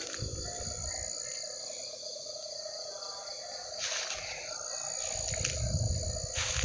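Night insects, crickets, trilling in two steady high continuous tones. Short rustling swishes come about four seconds in and again near the end, and a low rumbling rises over the last couple of seconds.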